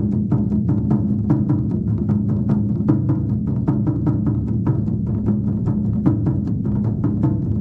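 Drum ensemble playing a continuous, driving rhythm of many rapid strokes over a deep, booming low resonance, without a break.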